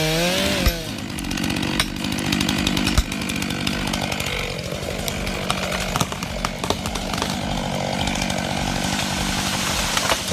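Chainsaw revving high, then dropping off about half a second in and running on at a lower, steady speed, with many sharp cracks and knocks over it.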